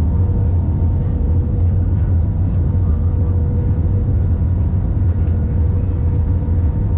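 Airliner cabin noise: a steady, heavy low drone of engines and airflow, with a faint steady whine above it.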